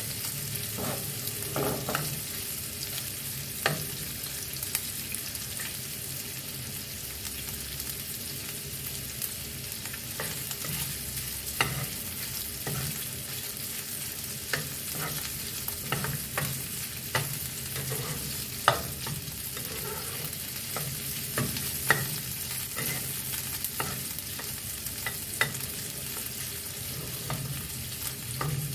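Prawn and roast pork pieces sizzling steadily in hot oil in a nonstick frying pan, while a spatula stirs them, scraping and knocking against the pan at irregular moments.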